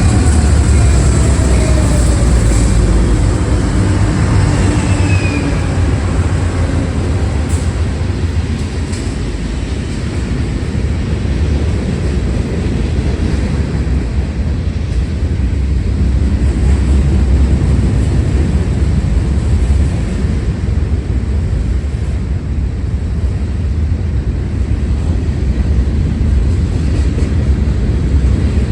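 Freight train rolling past, a loud steady low rumble of wheels on rails, with a few faint falling tones in the first few seconds.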